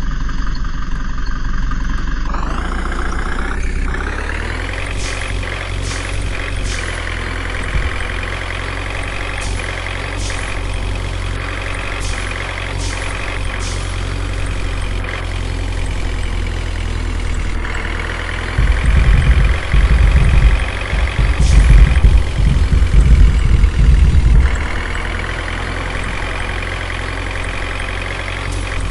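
A truck's engine running steadily, revving up in pitch about two seconds in and then holding, with a few sharp clicks. Past the middle, loud low thumps and rumbling come in for about six seconds before the steady running returns.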